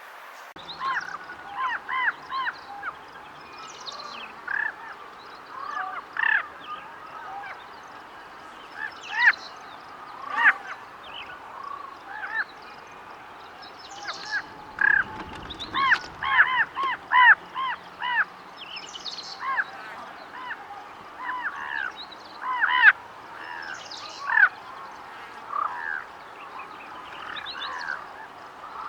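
Common ravens calling: many short, hoarse calls, some overlapping, coming in bunches throughout, with the densest run in the middle.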